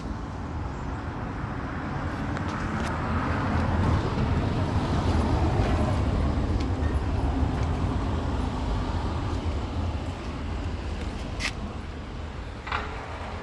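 VQ35 3.5-litre V6 swapped into a Nissan Sentra B13, running with a deep rumble that swells over the first few seconds and eases off again. A couple of short sharp sounds come near the end.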